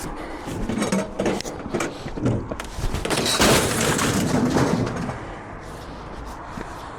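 Scrap being handled and loaded: a run of knocks and thumps, then a louder stretch of scraping and clattering about three to five seconds in, dying down after.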